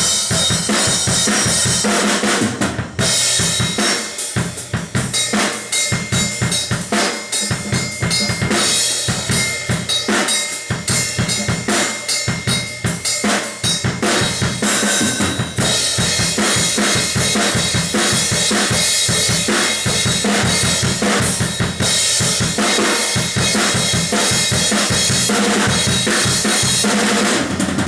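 Drum kit played continuously: bass drum, snare and brass-alloy Krest Aged Brass cymbals (13-inch hi-hat, 14-inch crash, 18-inch crash ride). The cymbals wash steadily under dense drum strokes.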